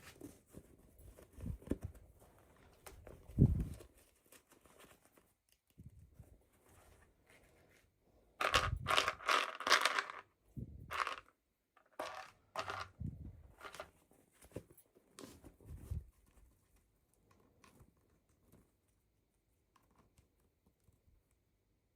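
Toy packaging being handled and torn open: scattered rustling, tearing and crinkling, busiest from about eight to eleven seconds in, then sparser and almost gone after about sixteen seconds.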